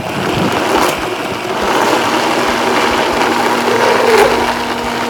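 Blender running steadily, puréeing raw chicken tenders with milk and spices into a thick mixture. A steady motor hum becomes clearer about halfway through.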